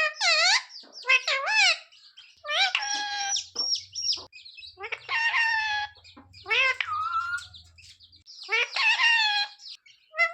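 Pet parrot calling in a series of about six short, shrill calls whose pitch swoops up and down, with brief pauses between them.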